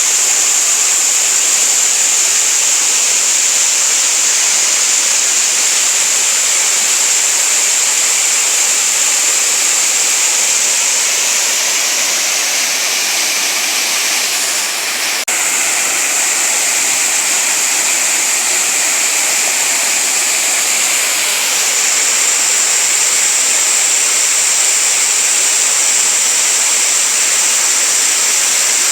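Waterfall water falling and rushing in a loud, steady roar. About halfway it dips briefly, with a single click, then carries on with a slightly changed sound.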